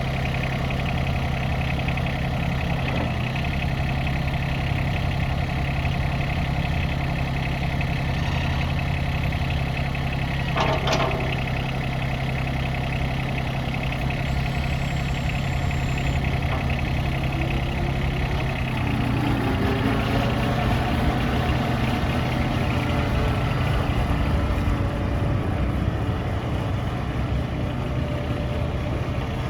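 Yanmar SA223 compact tractor's diesel engine idling steadily. There is a short sharp clank about eleven seconds in, and past the middle the engine note rises slightly and stays a little higher.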